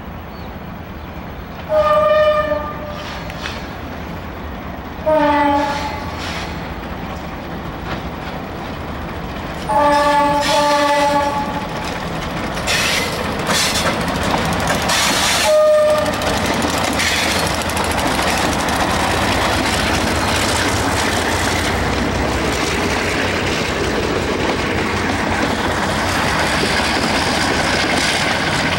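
Freight train led by two ALCO RSD16 diesel locomotives sounding the horn four times as it approaches: three long blasts, then a short one. Then the locomotives pass close by and the freight wagons roll past below with a steady loud rumble and rattle of wheels on the rails.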